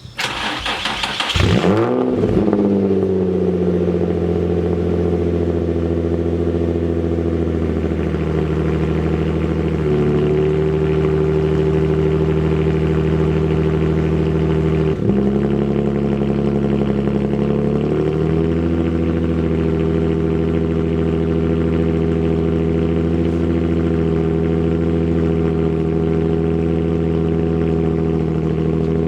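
Infiniti G35's 3.5-litre V6 cold start: the starter cranks, the engine catches with a brief rev that falls away, then it settles into a steady cold idle. The idle speed steps a few times as it warms, with a small click about halfway through.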